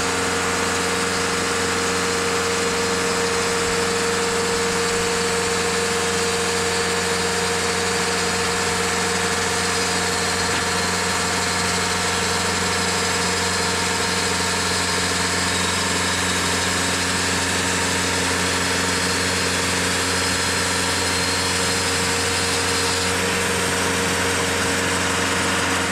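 Engine of a TimberKing 2520 portable band sawmill running at a steady speed, with an even hum and no change in load.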